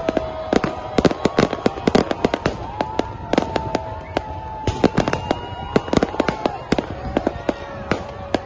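Firecrackers and fireworks going off all around in rapid, irregular cracks and bangs, several a second, with a few held whistling tones over them.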